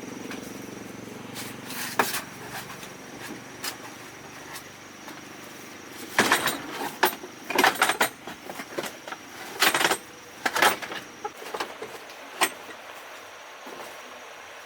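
Irregular sharp knocks and clatter, bunched in a quick flurry about halfway through, over a steady high insect-like trill.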